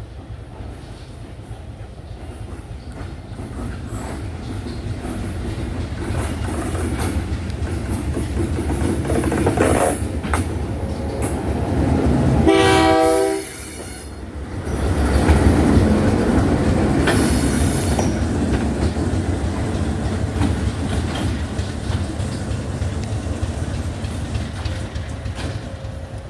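A train running on the track, its rumble growing steadily louder. About thirteen seconds in there is a short horn blast, after which the loud rumbling and rail clatter goes on.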